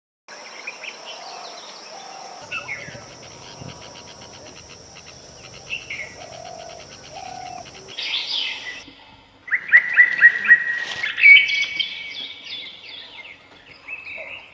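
Birds chirping and calling, with a steady high tone underneath for the first nine seconds. About nine seconds in, the sound changes abruptly to louder birdsong made of quick, repeated whistled notes.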